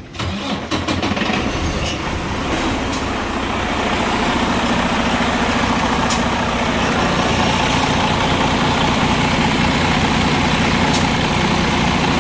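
Heavy air-brake truck's diesel engine cranked and started, catching within about a second, then idling steadily, with a few faint clicks.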